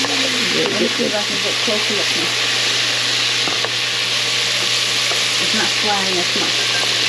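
Flour-coated chicken livers sizzling steadily as they pan-fry in hot oil in a pot, while a slotted spatula scrapes and turns them.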